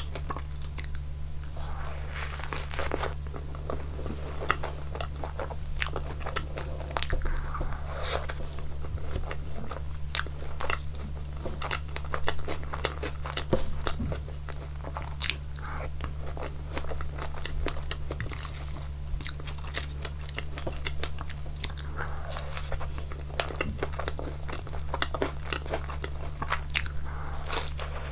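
Close-miked eating of a waffle topped with strawberries and whipped cream: repeated bites and chewing with crisp crunches and small wet mouth clicks, over a steady low hum.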